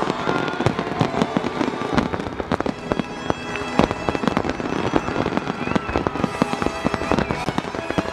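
Fireworks grand finale barrage: a dense, continuous run of shells bursting in rapid, overlapping bangs with crackle.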